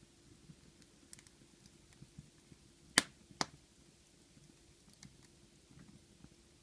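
Wood fire in a fireplace crackling faintly, with scattered small ticks and two sharp pops about three seconds in, half a second apart.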